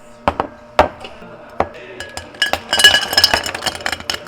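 Three sharp knocks, then from about halfway a rapid run of glass clinking with a ringing tone: glassware being handled at a cafe counter.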